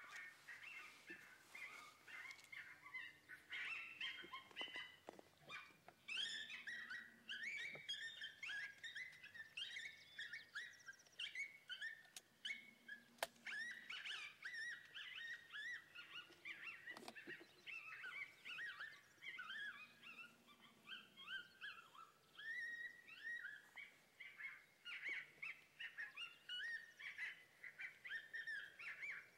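Faint, busy chirping and twittering of small birds in many quick short notes, with an occasional light click.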